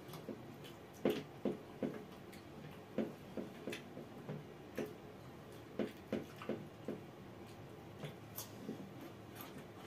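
Close-miked chewing and mouth smacks of people eating rice and curry with their hands: irregular short wet clicks and smacks, a few a second, coming in clusters.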